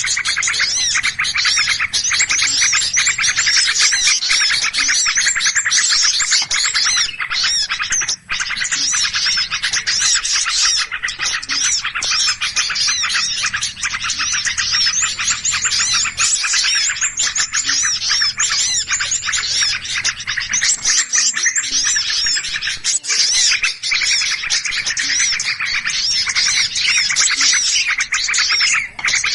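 A dense chorus of many small birds chirping and twittering at once, without a break, in an agitated flock. It is a bird-trapping lure call of noisy small birds.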